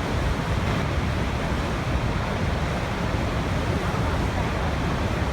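Waterfall water rushing and crashing in a steady, unbroken roar of falling water, heaviest in the low end.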